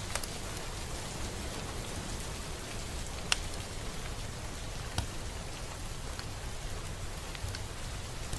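Steady rain falling, an even hiss of many drops, with a few louder single drops striking close by, the sharpest about a third and halfway through.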